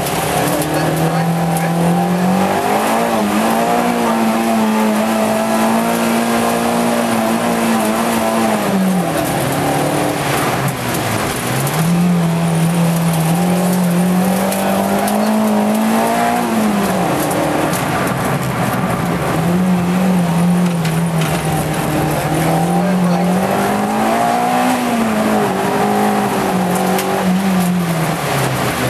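Peugeot 205 1.6 GTI's four-cylinder engine heard from inside the cabin, revving hard and falling back several times as the driver works through gears and corners.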